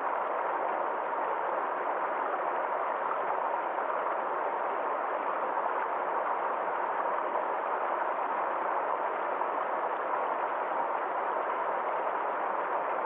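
Small forest stream flowing: a steady, even noise of running water with no distinct splashes or changes.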